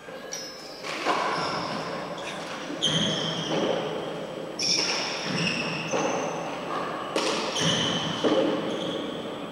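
A four-wall handball rally: the rubber handball is struck and smacks off the court walls and floor with sharp, echoing hits about once a second, mixed with high sneaker squeaks on the court floor.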